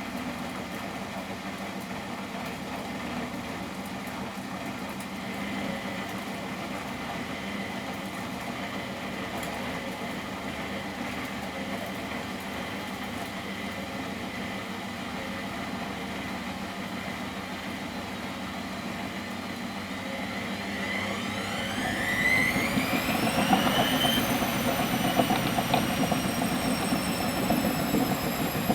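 Miele Professional WS 5426 washing machine running with a steady hum. About three-quarters of the way in, its motor spins the drum up: a rising whine climbs for a few seconds, levels off at a high pitch, and the machine grows louder and rumbles.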